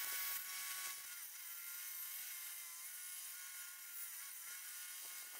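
Homemade circular saw running with a steady high whine while ripping a board lengthwise. Its pitch sags slightly twice as the blade takes the load.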